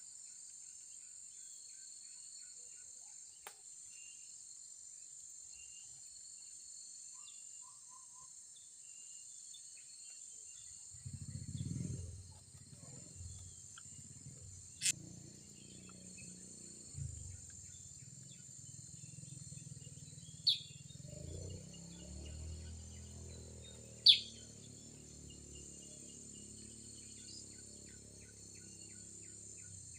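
Steady high-pitched drone of insects (crickets or cicadas), with a few short, sharp bird calls, the loudest about 24 seconds in. A low rumble comes in about 11 seconds in and carries on to the end.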